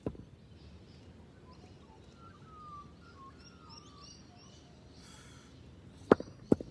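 Birds chirping in short calls, with a sharp knock just at the start and two more sharp knocks a little apart near the end.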